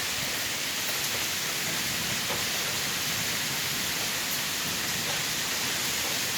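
Steady rain of a thunderstorm falling and splashing on surfaces, an even hiss.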